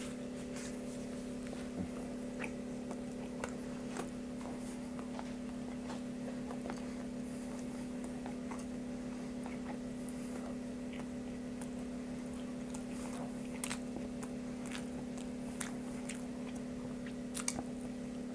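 A man chewing a mouthful of burger: scattered faint, short clicks and crackles of chewing over a steady low hum.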